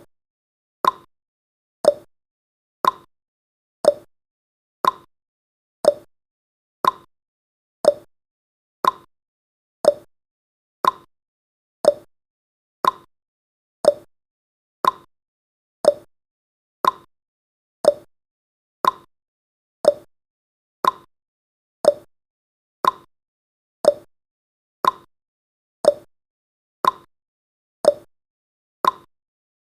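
Countdown timer's tick sound effect: one short, sharp tick each second with a brief ring, perfectly regular.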